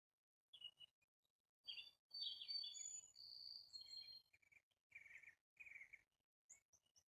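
Faint birdsong: short phrases of chirps and whistles, with quick high chirps near the end.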